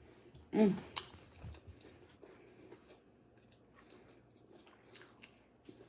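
A person chewing a bacon burger with small, faint wet clicks and smacks, after a brief hummed "mm"-like vocal sound about half a second in.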